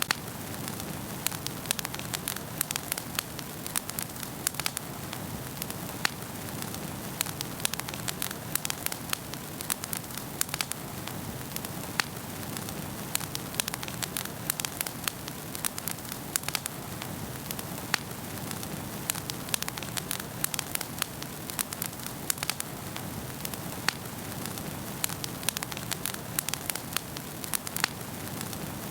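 Wood fire burning in a fireplace, crackling and popping steadily with many sharp, irregular snaps over a soft hiss of flames.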